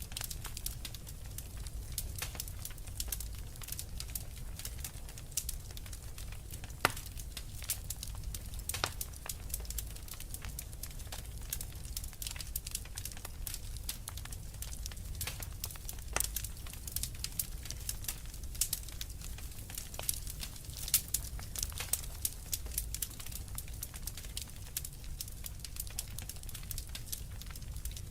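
Fireplace fire crackling: constant irregular small pops and snaps over a steady low rumble, with a couple of louder pops.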